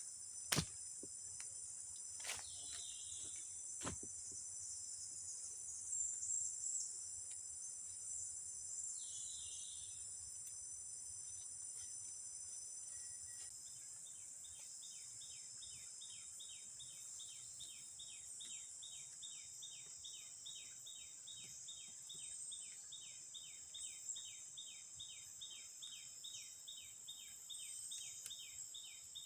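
Steady high-pitched buzzing of forest insects, with a few sharp clicks in the first four seconds. From about halfway through, a rapid chirping call repeats about three times a second over the buzz.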